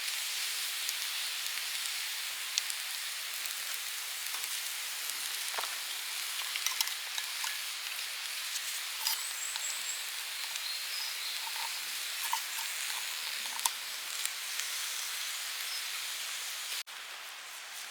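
Food sizzling as it cooks over camp heat, a steady hiss dotted with small pops and crackles. About a second before the end it breaks off into a softer, even hiss.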